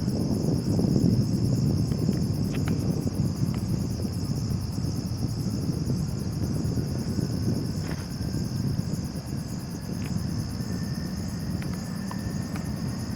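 Embraer ERJ-175 regional jet's GE CF34 turbofan engines heard at a distance as a steady rumble, with a faint whine slowly rising in pitch in the second half. A steady chorus of crickets runs underneath.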